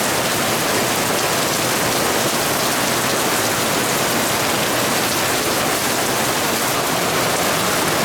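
Rain from a passing storm falling steadily, an even, unbroken hiss.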